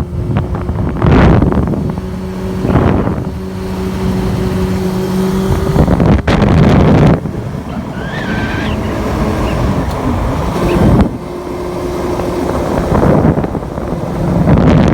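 Quad bike's Honda CBR600F2 inline-four motorcycle engine running hard at speed, revving up in surges with sudden throttle drops around six and eleven seconds in. Wind buffets the microphone.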